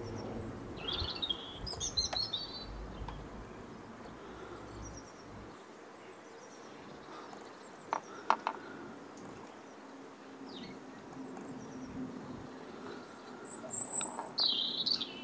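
Outdoor ambience with small birds chirping: short high calls about a second in and again near the end. Two sharp clicks about eight seconds in, and a low rumble that stops about five seconds in.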